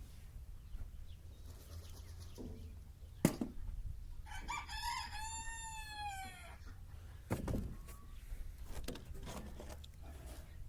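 One long animal call, about two and a half seconds, falling slowly in pitch, starting about four seconds in. Sharp knocks come just before it and again a little after it ends.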